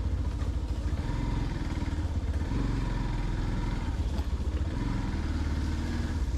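Motorcycle engine running steadily while riding along at an even throttle.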